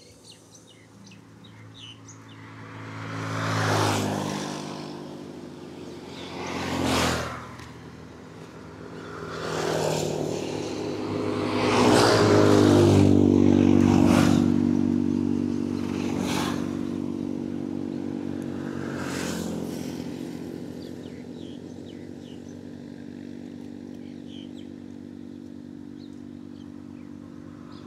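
Road traffic: about six motor vehicles passing close by one after another, their engines swelling up and fading, the loudest pass a little under halfway through, then a steady lower engine hum toward the end.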